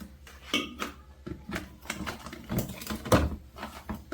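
Scattered knocks and clicks of food containers and other items being handled and set down in a refrigerator, the loudest knock a little after three seconds in.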